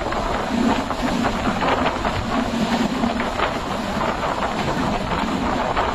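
Panchagarh Express train running: a steady loud rumble with dense clatter and rattling of wheels and carriages, and a low hum that fades after about three seconds.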